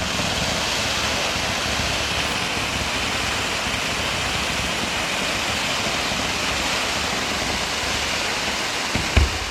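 Steady, loud hiss of fireworks spraying sparks. It starts suddenly and holds even throughout, with a few sharp firework bangs near the end.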